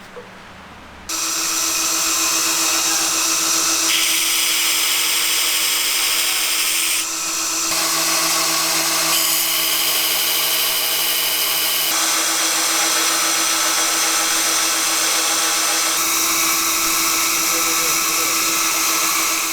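An electric power tool running steadily, a constant motor hum under a loud high hiss. It starts abruptly about a second in, and its hiss changes character every few seconds.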